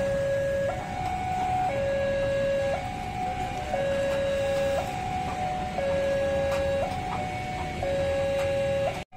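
A two-tone siren alternating steadily between a lower and a higher note, switching about once a second, over a low rumble. It cuts out for an instant near the end.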